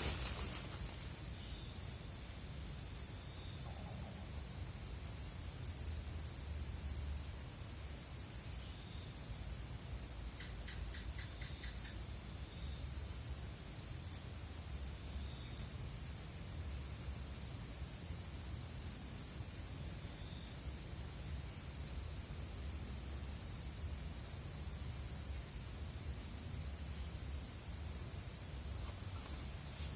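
Crickets trilling without pause in a steady high, finely pulsing trill, with shorter high chirps from other insects coming and going and a brief run of rapid clicks about eleven seconds in.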